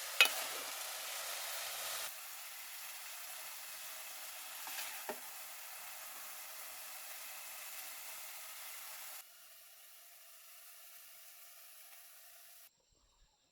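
Food sizzling as it fries in a pan, a steady hiss with a sharp clink just after the start and a fainter knock about five seconds in. The sizzle drops in level suddenly twice and cuts off shortly before the end.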